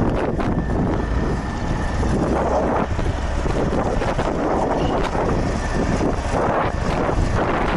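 Tractor diesel engine running steadily while clearing snow, with wind buffeting the microphone.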